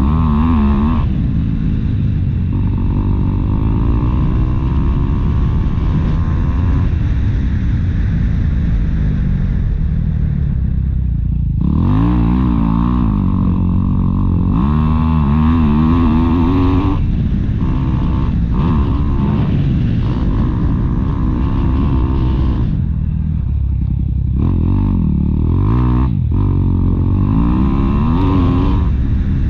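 Motocross dirt bike engine running loud, its pitch repeatedly climbing and dropping as the throttle is opened and closed through the gears.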